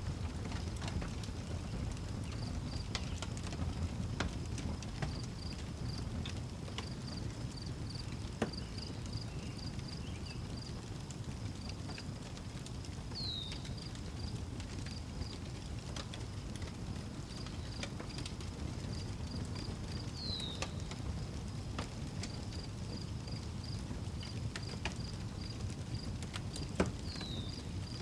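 Outdoor wood fire crackling, with scattered sharp pops over a low steady rumble. Crickets chirp in an even high pulsing pattern, and a short high falling chirp sounds three times, about seven seconds apart.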